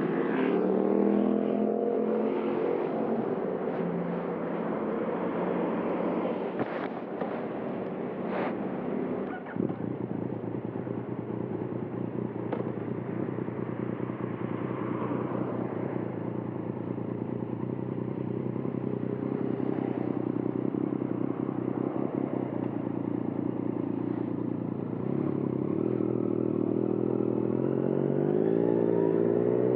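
2020 Yamaha MT-09's inline-three engine through a Termignoni exhaust while riding: revs climb at the start, drop in pitch with a few sharp clicks around eight to ten seconds in, hold steady through the middle, then climb again near the end.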